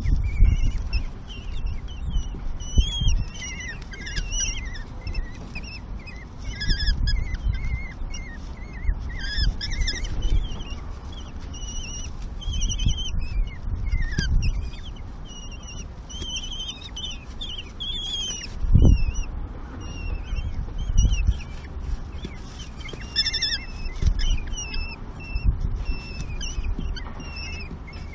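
Common kestrel nestlings calling at the nest: many short, high chirps and squeaks throughout, as the chicks beg to be fed. Low thumps and rumbles come in between, the strongest of them about two-thirds of the way through.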